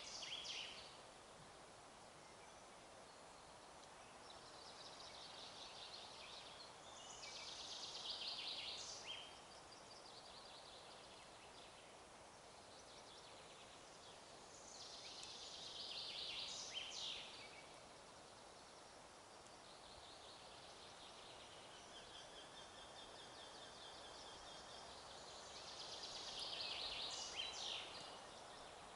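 A songbird singing the same trilling phrase of two to three seconds about every nine seconds, four times, over a faint steady hiss of wind in the forest.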